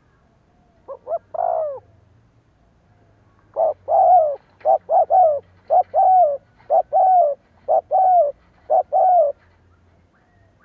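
Spotted dove cooing: a short three-note phrase about a second in, then a longer run of about ten coos, each note dropping slightly in pitch.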